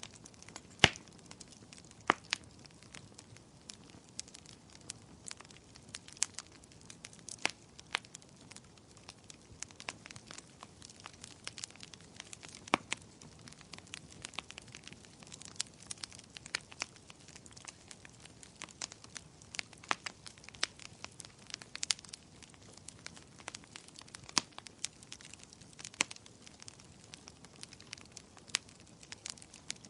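Wood fire burning in a fireplace: irregular sharp crackles and pops of firewood over a low steady hiss, the loudest pops about a second and two seconds in.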